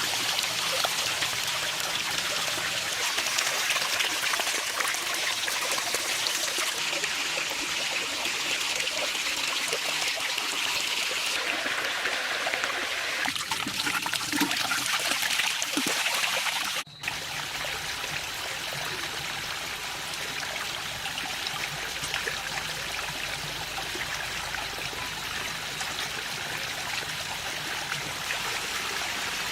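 Water running and trickling steadily. About 17 s in it breaks off for a moment and resumes with a slightly fuller, lower flow.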